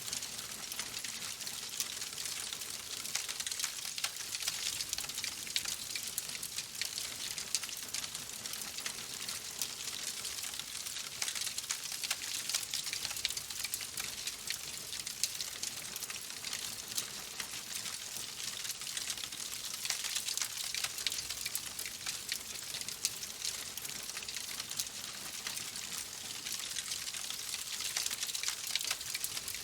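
Wood fire crackling in a fireplace: a steady hiss thick with small, quick pops and snaps throughout.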